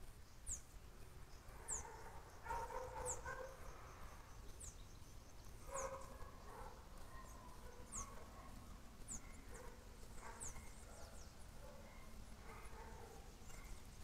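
A bird calling: a short, high note that slides downward, repeated about once every second or so. Fainter, lower scattered sounds come between the calls.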